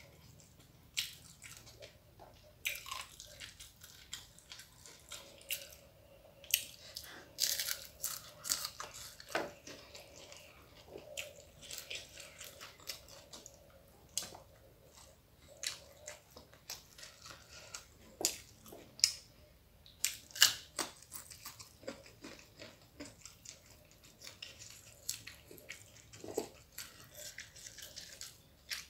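Close-up eating sounds: irregular crunching and chewing of a meal of rice, crisp-fried dried salted fish and raw vegetables, with fingers picking at food on the plate.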